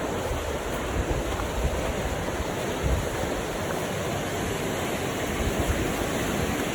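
Steady outdoor rushing of wind and moving water, with gusts of wind buffeting the microphone.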